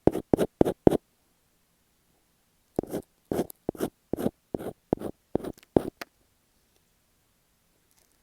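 Masking tape stuck on an earphone microphone being scratched in short, quick strokes right against the mic. A run of about five strokes comes first, then a pause of about two seconds, then a steadier series at two to three strokes a second.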